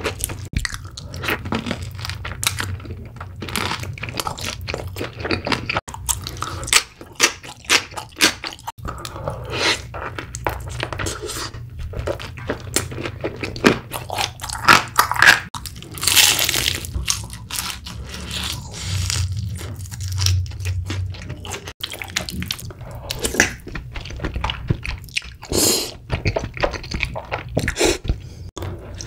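Close-miked eating: irregular crunching and chewing of sauced fried chicken and chewy rice cakes in cheese sauce, with one louder crunch about halfway through.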